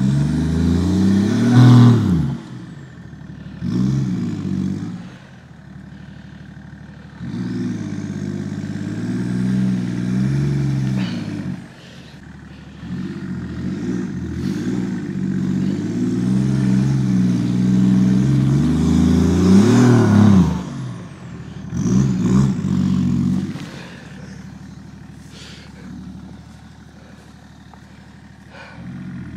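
BMW E39 530d's M57 straight-six turbodiesel revving in repeated bursts, the pitch climbing and dropping back each time, loudest about two seconds in and again near twenty seconds. This is the rear-wheel-drive car struggling for grip on a snowy, sandy hill climb.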